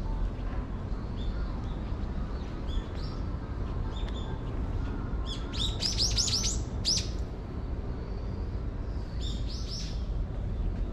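Small birds chirping: a quick run of sharp chirps about halfway through and a shorter run near the end, with fainter calls before, over a steady low background rumble.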